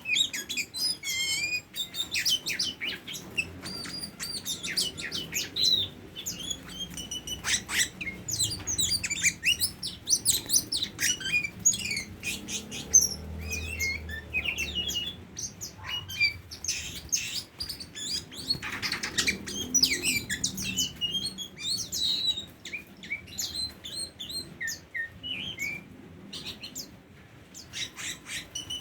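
Oriental magpie-robin (kacer) singing: a rapid, unbroken run of varied chirps and whistles.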